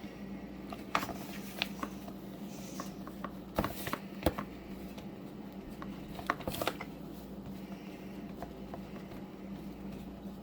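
Kitchen handling sounds: scattered light taps, clicks and rustles, with a few sharper knocks about a second in, around four seconds in and past the six-second mark, over a steady low hum.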